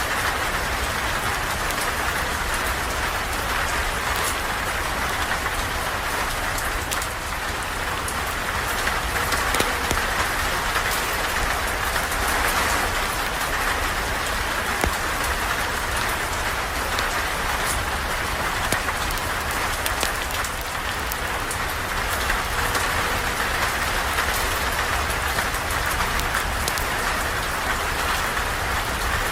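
Steady rain falling, an even hiss with many small scattered ticks of drops.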